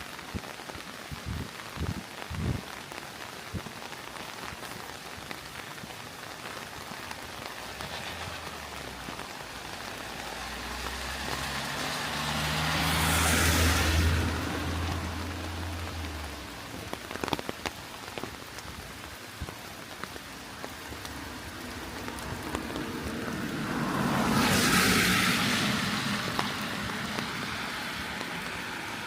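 Steady rain falling, with two vehicles passing on the wet road, one about halfway through and another near the end, each swelling in a rush of tyre hiss and fading away.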